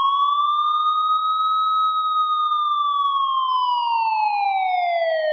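An ambulance siren giving one slow wail: the pitch rises gently, then falls, and cuts off suddenly near the end.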